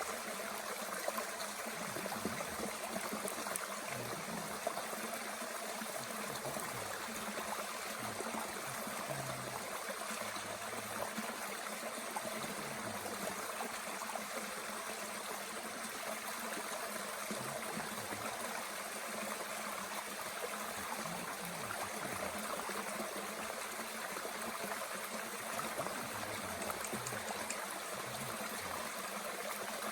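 Mountain stream flowing steadily over rocks, an even rushing of water with occasional low gurgles.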